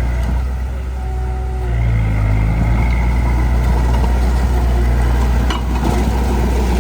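Heavy-equipment diesel engine running, easing off briefly and then revving up about two seconds in before holding a steady loud note. A single short metallic knock about five and a half seconds in.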